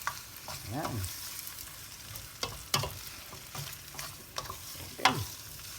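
Rigatoni being stirred through a sizzling sauce in a frying pan, the utensil knocking against the pan a few times.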